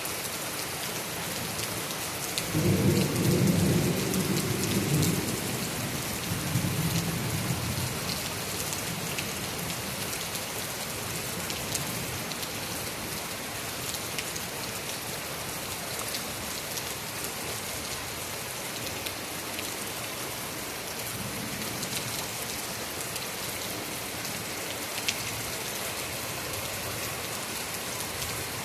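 Heavy rain falling steadily. A rolling rumble of thunder swells about two and a half seconds in and dies away over roughly five seconds, and a fainter rumble follows later.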